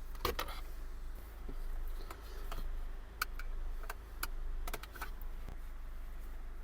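Scattered sharp plastic clicks and light rattling as wiring connectors are unplugged from the back of a car stereo and climate-control unit, with soft rustling of the unit being handled.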